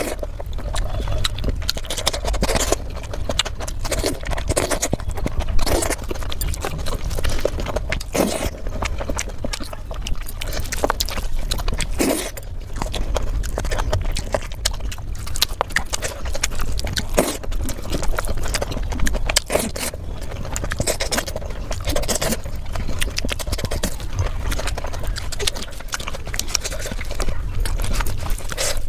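Close-miked eating: irregular chewing and mouth-smacking clicks, with a steady low rumble underneath.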